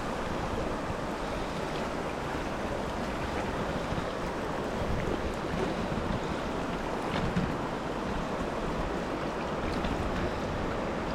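Steady rushing of a river's flowing water, an even hiss with no distinct events.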